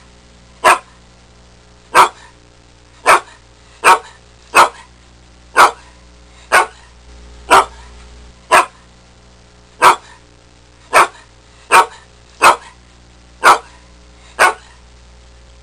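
Grey pit bull-type dog barking: about fifteen single sharp barks, roughly one a second, stopping shortly before the end.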